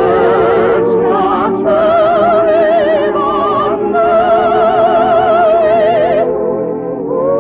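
Operatic singing with a wide vibrato, long held notes, and musical accompaniment from an early-1950s radio musical recording with a narrow, dull top end.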